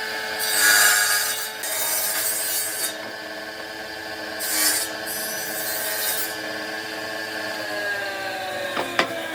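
A power tool's motor running with a steady hum while it is pressed against wood in several loud rasping passes. Its pitch drops near the end, and then come two sharp knocks.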